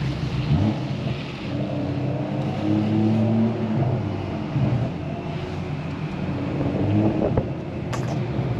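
Car engine running at low speed, its pitch drifting gently up and down, under a steady hiss of rain.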